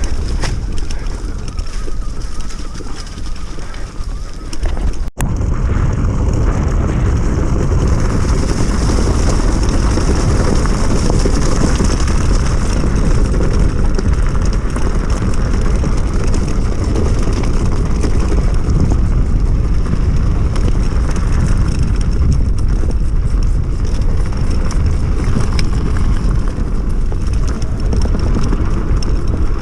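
Wind rushing over the camera microphone, with tyre noise, while riding a hub-motor electric enduro bike; the sound drops out for an instant about five seconds in, and the low rumble is louder afterwards.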